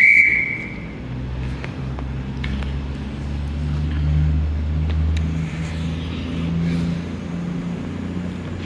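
Class 450 Desiro electric multiple unit humming low and steady at a platform, swelling slightly about halfway through. A brief high tone sounds at the very start and fades within a second.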